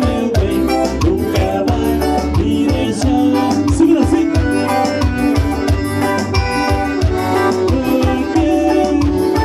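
Forró band playing live: sustained melodic notes over a steady, regular drum beat.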